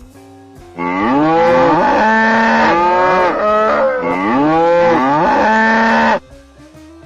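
A cow mooing twice, two long loud calls that rise and then fall in pitch. Soft guitar background music plays before and after.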